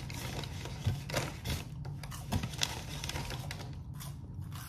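Chewing and crunching food close to the microphone: a string of irregular clicks and crunches, with a steady low hum underneath.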